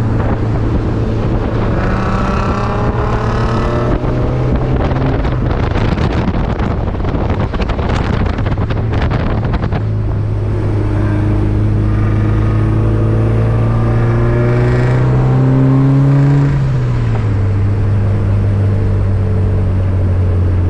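Car engine running steadily while driving at cruising speed. Its pitch rises slowly and then drops about three-quarters of the way through, with a stretch of crackling noise in the middle.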